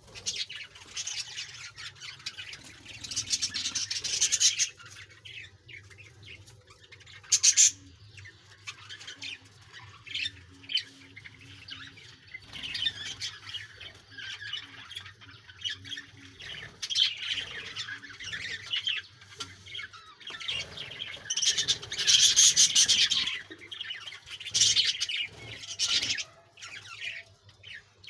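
Pet budgerigars chirping and squawking, with chattering calls throughout and several louder bursts of squawks along the way.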